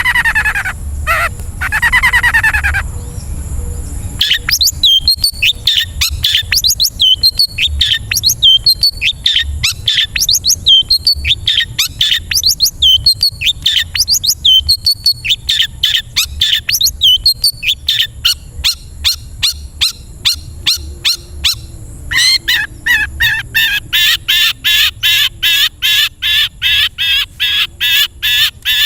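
Long-tailed shrike (cendet) song from a training recording: a few loud gliding calls, then a busy run of quick chirps and downward-sweeping notes. About three-quarters of the way through, it switches to a fast, even series of repeated notes, two to three a second.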